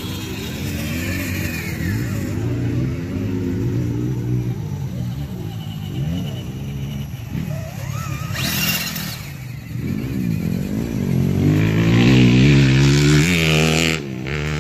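Small electric motors and gear trains of micro-scale RC crawler trucks, whining and revving unevenly as they crawl. The whine rises sharply about eight seconds in and grows louder near the end.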